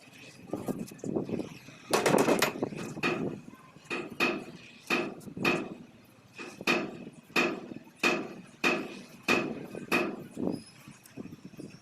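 Hammer beating the sheet metal of a dented truck body: a steady run of ringing blows, about one and a half a second, starting about two seconds in.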